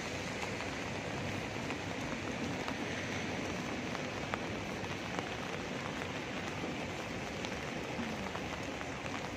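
Steady rain falling on wet pavement, an even hiss with a few sharper drop taps scattered through it.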